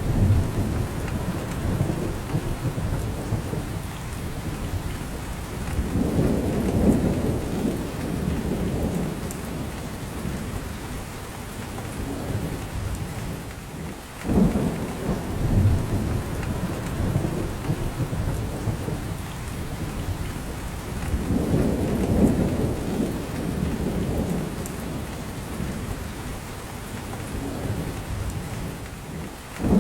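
Steady rain falling on a spruce forest, with drops falling from the branches. A low rumble swells and fades twice, and the rain rises suddenly in level about halfway through.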